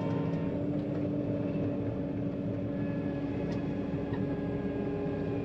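John Deere 4755 tractor's diesel engine running steadily at road speed, with an even drone. A faint thin high whine joins about halfway through.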